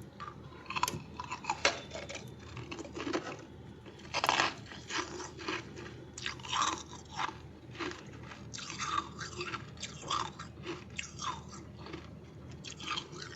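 Close-miked chewing of crunchy freezer frost: a steady run of crisp crunches and bites, the loudest a little after four seconds in.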